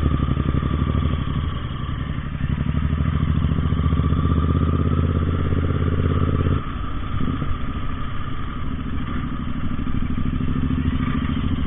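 Royal Enfield Continental GT 650 parallel-twin engines running steadily on the move, the exhaust note strong and even. About six and a half seconds in it drops abruptly and carries on lower and less even.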